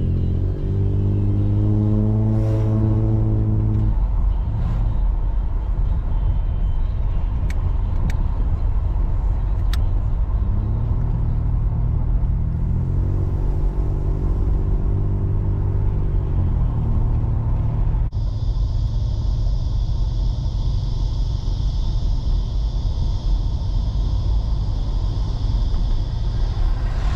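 Ford EL Falcon's 4.0-litre SOHC inline-six running loud through extractors and a 2.5-inch sports exhaust. Its note rises and holds as it pulls, about a second in and again around twelve seconds in. A steady high-pitched whine joins about two-thirds of the way through.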